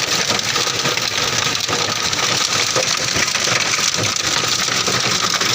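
Hailstones and rain pelting a car's body and windows: a loud, steady clatter of countless small impacts over a hiss of rain and wind.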